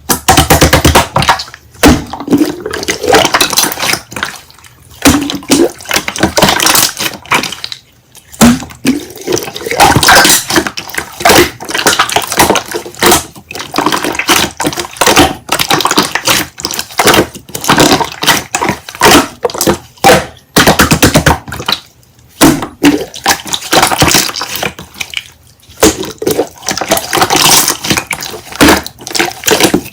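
Slime being squished and worked by hand, with wet clicking and crackling in irregular bursts and brief pauses between them.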